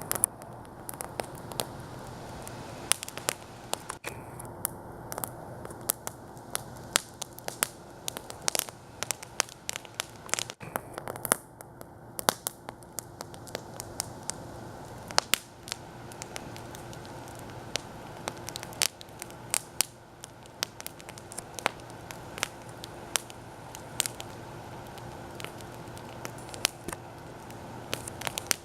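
Wood campfire crackling: irregular sharp pops, several a second, over a steady hiss.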